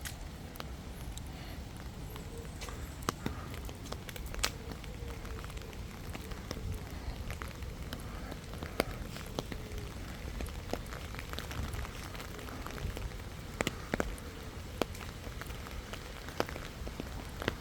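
Scattered crackles and taps from walking outdoors, footsteps and small debris underfoot at an irregular pace, over a low steady rumble.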